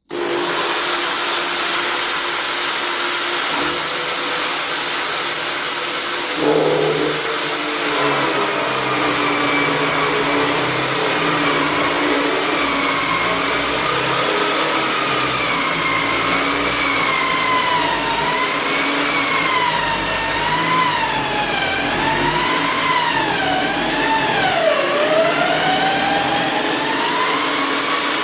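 Electric drill in a drilling stand switched on and running, boring a hole down into wooden timber. From about eight seconds in, its whine drops and then wavers up and down as the bit bites and the motor slows under load.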